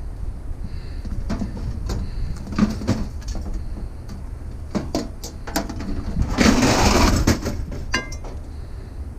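Scrap metal being handled: a few scattered knocks and clanks, a longer, louder clatter about six and a half seconds in, and a short metallic ring near the eight-second mark, over a steady low rumble.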